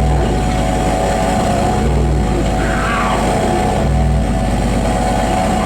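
Live harsh noise music: loud, dense distorted electronic noise over steady held tones, with a low throb swelling about every two seconds and a pitch sweeping down about three seconds in.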